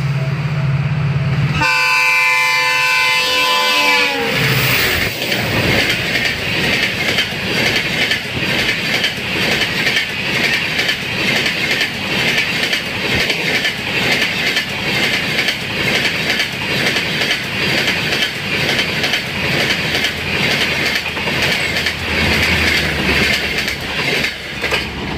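A WDP4D diesel locomotive runs up with a low engine drone, then sounds its multi-tone horn for about two seconds as it passes, the pitch dropping as it goes by. Its Humsafar coaches then roll past with a steady, rhythmic clickety-clack of wheels on the rails.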